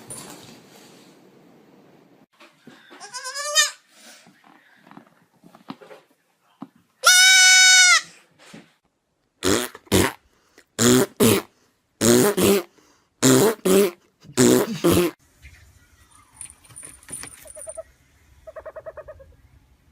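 Goat bleating: one long, loud, high scream about seven seconds in, then a run of short loud bleats.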